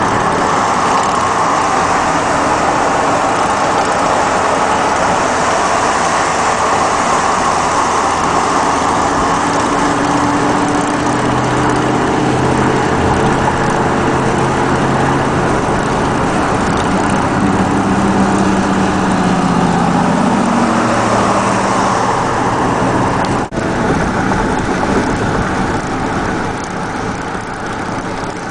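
Motorcycle riding along the road: steady wind rush over the microphone with the engine running underneath, its note coming up more clearly around the middle.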